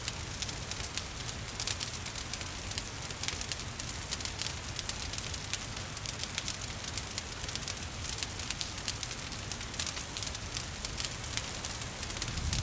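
Wood fire crackling with many quick, sharp pops and snaps over a steady hiss of gentle rain.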